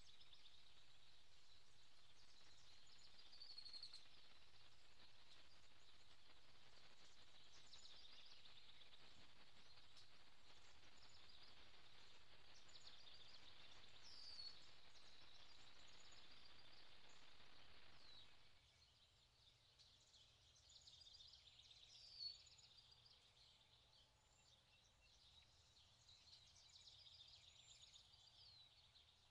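Faint bird chirps and short calls over a steady hiss, which drops away suddenly about two-thirds of the way through.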